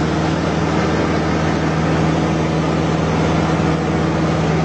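Airplane engine droning steadily: a constant low hum under an even rushing noise.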